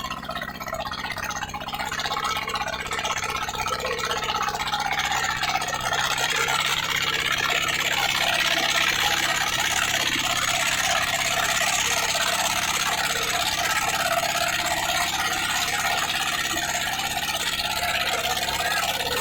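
Tractor diesel engine running hard under load, pulling a harrow. Steady throughout, with a hiss that builds and grows louder about six seconds in.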